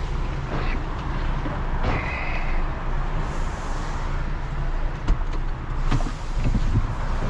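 Heavy recovery truck's diesel engine running steadily at low speed while manoeuvring, with a few short sharp knocks about five and six seconds in.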